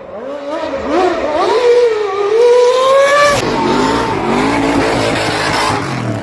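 Motorcycle engine revving hard, its pitch climbing and falling several times, then dropping suddenly a little over three seconds in before revving again.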